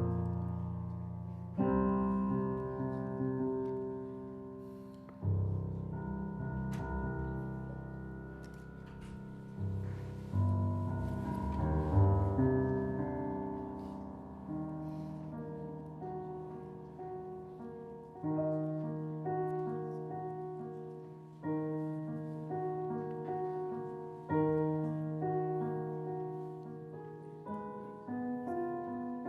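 Solo piano playing a slow passage of sustained chords, a new chord struck every two to three seconds and left to ring and fade.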